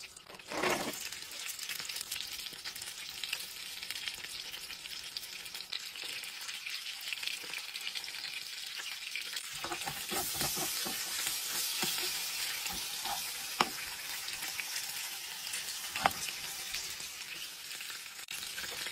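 Steak and chips sizzling in hot oil in a frying pan, a steady hiss. From about halfway a utensil stirs and scrapes through the chips in the pan, with a couple of sharp clicks later on.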